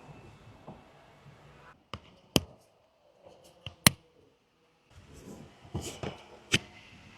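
A series of sharp clicks and knocks, with a cluster of clicks and rustling near the end, like hands handling the car's interior trim and compartments.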